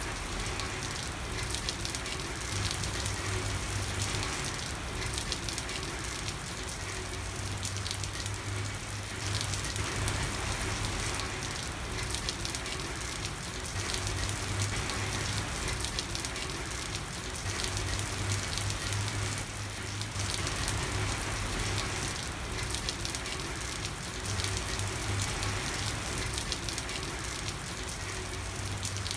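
Steady rain falling on a street, a dense patter of drops with no letup. A low hum comes and goes underneath every few seconds.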